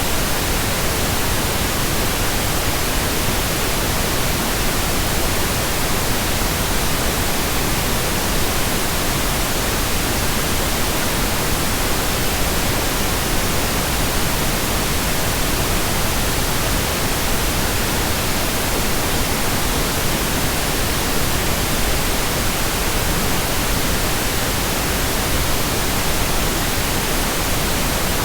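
Steady pink noise: an even, unbroken hiss with no changes.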